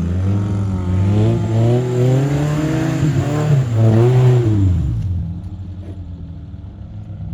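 Off-road 4x4's engine revving under load, its pitch rising and falling several times, then easing off about five seconds in.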